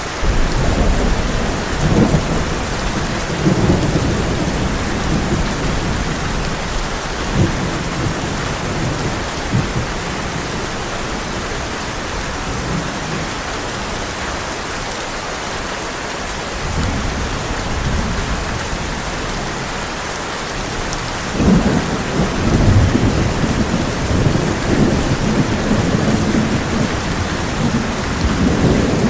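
Heavy rain drumming steadily on a tin roof, with rolls of thunder rumbling in and out: one begins right away, weaker ones follow, and a longer, stronger roll builds about three-quarters of the way through.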